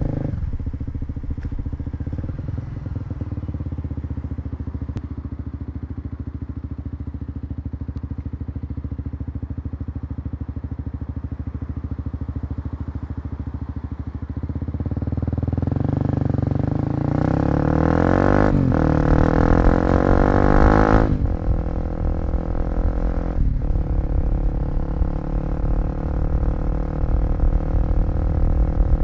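Kawasaki KLX250 single-cylinder four-stroke motorcycle engine running under way, heard from the rider's position. It runs steadily at first, then gets louder about halfway through, with the pitch rising and falling for a few seconds before it settles again.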